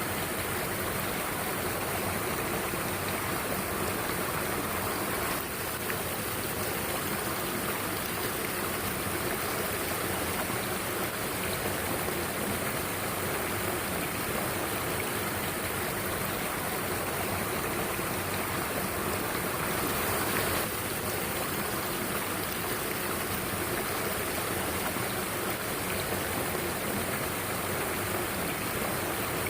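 Mountain stream water rushing steadily, an even, unbroken rush of flowing water.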